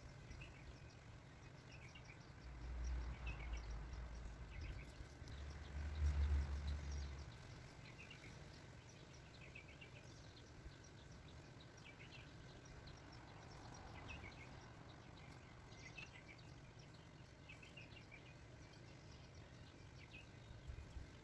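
Outdoor garden ambience: a bird chirping in short calls every second or two, with a low rumble for a few seconds near the start.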